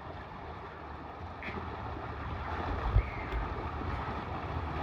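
Steady rush of running water, with wind buffeting the microphone in low thumps about three seconds in.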